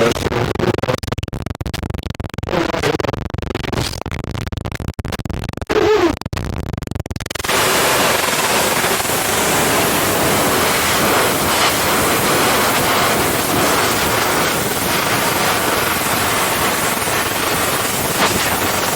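Loud television static hiss. For the first seven seconds or so it is choppy and broken, with crackles and brief pitched fragments, then it settles into a steady, even hiss.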